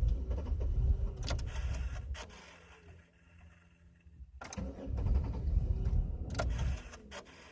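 Starter cranking the 2000 Chevy Impala's 3400 V6 in two tries of a couple of seconds each, with a few clicks between them, and the engine not catching: the car's hard-start fault, right after it stalled on the throttle.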